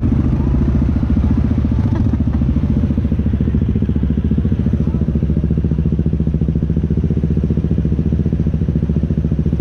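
ATV engine running steadily at low speed, with a rapid, even exhaust beat.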